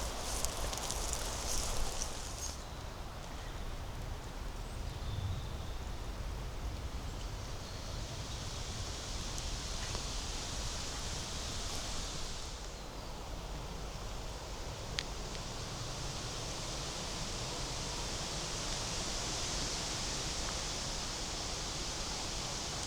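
Woodland ambience: crackling rustles in the leaf litter for the first couple of seconds, then a steady rushing hiss of leaves that swells twice, with one sharp click about two-thirds of the way through.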